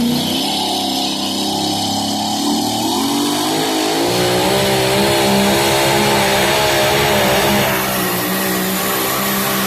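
Two-wheel-drive pulling truck's engine at full throttle during a pull. The revs climb about three seconds in, then hold high with a wavering pitch.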